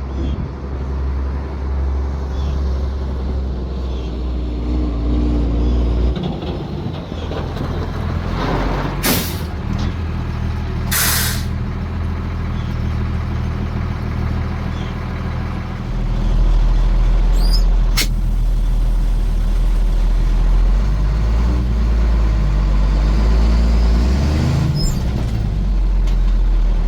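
International DT466 turbo diesel in a 1987 S1900 dump truck running, its note stepping up about a third of the way in and again past the middle. Two short hisses of air from the truck's air brake system break in near the middle, and a sharp click follows a little later.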